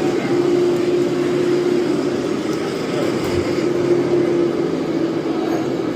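Radio-controlled scale model truck running, its small electric motor giving a steady whine that wavers slightly in pitch.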